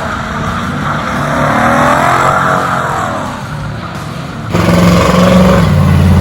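Chevy S10 pickup running with its muffler removed during burnouts: a wavering, rising-and-falling squeal of spinning tyres, then about four and a half seconds in a sudden louder, deeper rev of the unmuffled engine.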